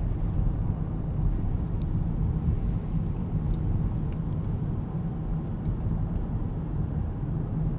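Steady low rumble of a car driving along a plowed road: engine and tyre noise from inside the moving car.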